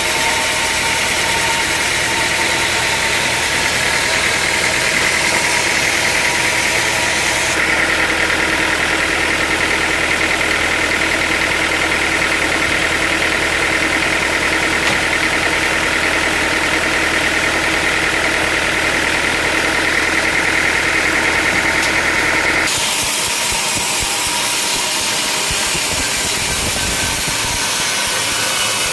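Sawmill machinery running steadily, with a motor hum and a strong steady whine. The sound changes abruptly twice, about a third of the way in and again near the end, as between separate takes.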